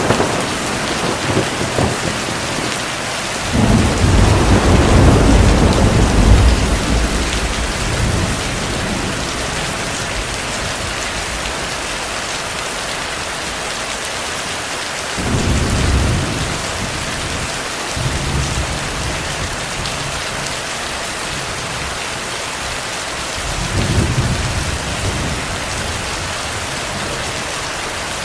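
Heavy rain falling steadily, with distant thunder rumbling in several times. The longest and loudest roll comes about four seconds in, with shorter rumbles about halfway through and again near the end.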